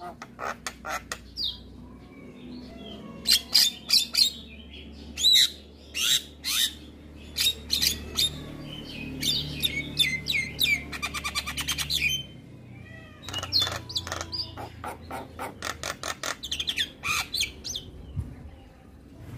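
Javan myna (jalak kebo) calling vigorously: a string of sharp, harsh squawks and chirps, with a fast rattling trill near the middle. A faint steady low hum sits underneath.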